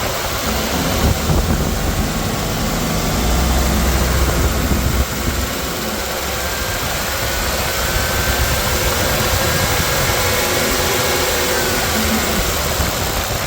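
2011 GM/Chevrolet heavy-duty 6.0L gasoline V8 engine running steadily at idle.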